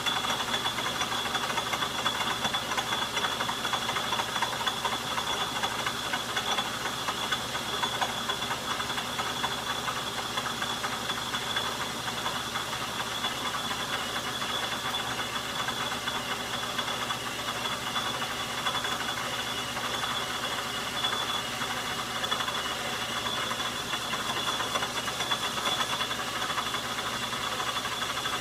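Logan metal lathe running steadily, with a constant high whine over its mechanical hum.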